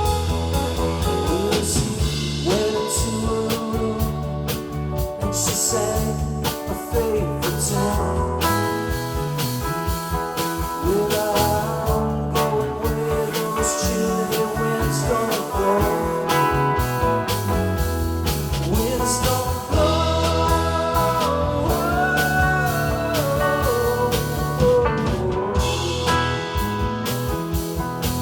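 A rock band playing, with an electric guitar lead whose notes bend up and down over bass and a drum kit keeping a steady beat.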